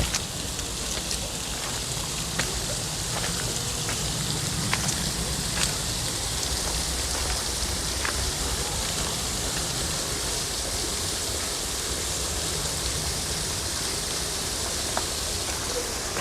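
Steady hiss of falling, splashing water, with a few faint ticks over it.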